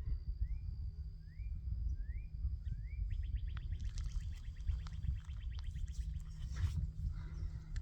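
Birdsong: a few rising whistled notes about half a second apart, followed by a fast, even trill. A thin, steady, high buzz runs beneath it, and a strong low rumble sits under everything.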